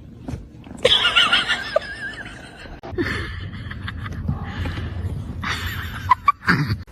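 An animal's high call with a wavering, quavering pitch, lasting about a second and starting about a second in, followed by rustling and a few short sharp sounds near the end.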